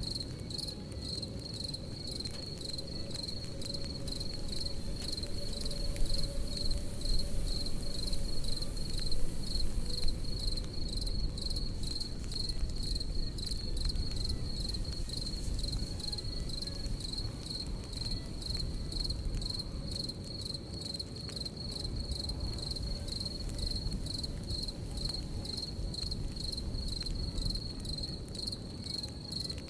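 Crickets chirping in a steady, even high-pitched pulse over the low crackle of a campfire, with scattered small pops; the fire is a little louder about a quarter of the way in.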